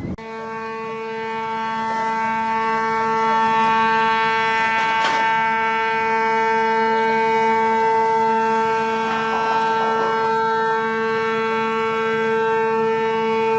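Ship's horn sounding one long, steady blast at a fixed deep pitch, swelling over the first three seconds or so. A brief knock comes about five seconds in.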